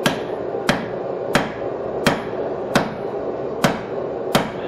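Blacksmith's hand hammer striking hot steel on an anvil: seven evenly spaced blows, about one and a half a second, each with a short metallic ring.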